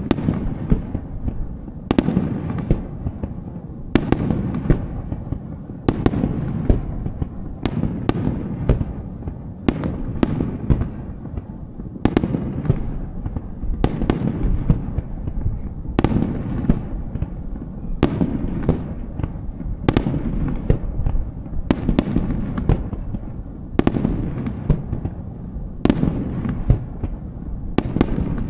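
Aerial fireworks shells bursting in steady succession, a sharp bang about every two seconds, each followed by a low rumble and crackle that runs on into the next burst.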